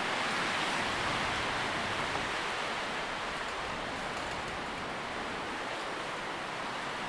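Wind rustling through tree leaves as a steady, soft hiss that swells slightly and eases off, ending on a single sharp click.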